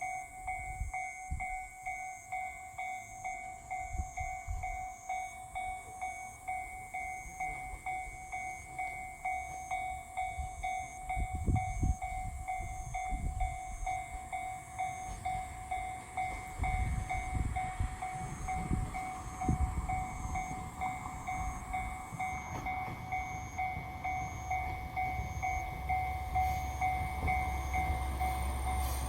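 Railway level-crossing warning signal ringing with a steady, fast, repeating electronic ding. Low rumbling from a passing train swells about halfway through.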